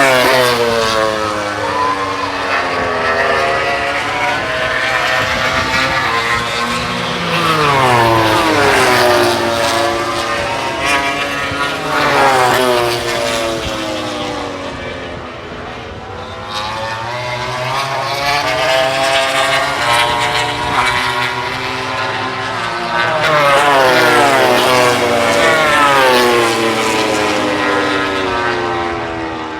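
MotoGP racing motorcycles passing one after another at full throttle near top speed. Each engine's high pitch drops sharply as it goes by, with several passes and some bikes overlapping.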